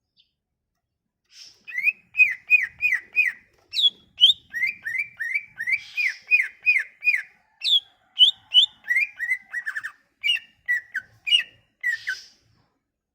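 A songbird singing a long phrase of sharp, down-slurred whistled notes, about three a second, with a few higher notes mixed in; it starts about a second in and stops shortly before the end.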